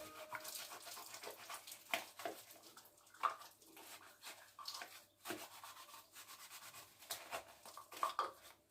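Faint, irregular light clicks and rubbing as the washing machine's plastic filter is handled.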